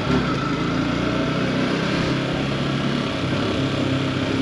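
Yamaha R15 V4's single-cylinder engine running steadily as the bike is ridden along, under a steady rush of wind noise.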